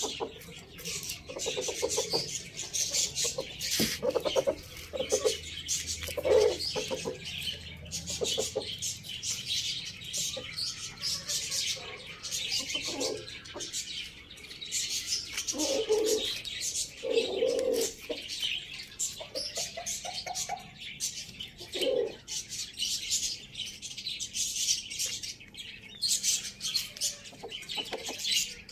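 Many small birds chirping and twittering without pause, with short, lower calls from larger birds now and then.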